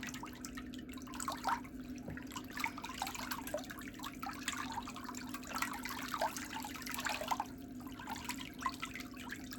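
Water trickling and dripping in small irregular drops, over a steady low hum.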